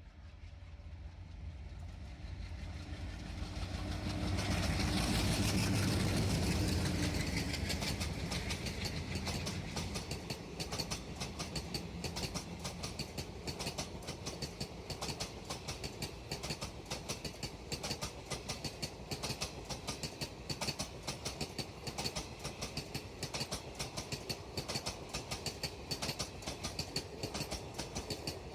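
Two diesel locomotives coupled together pass at speed, their engine rumble building to its loudest about five to seven seconds in. The coaches then clatter steadily past over the rail joints with rapid wheel clicks.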